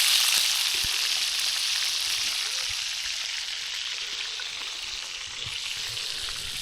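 Bacon sizzling in a frying pan: a steady hiss with a few small pops, getting gradually softer.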